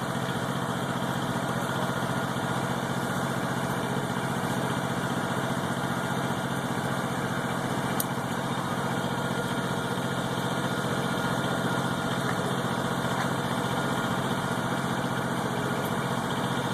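Truck engine idling steadily with an even low hum, and a single short click about eight seconds in.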